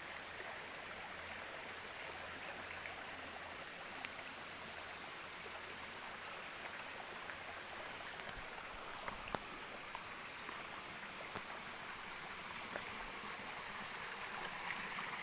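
River water flowing steadily over stones, an even rushing, with a single sharp click about nine seconds in.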